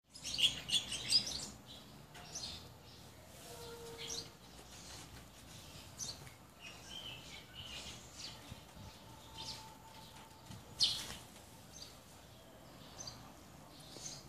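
Birds chirping in short, irregular high calls, most densely in the first second and a half, with one louder chirp near the end.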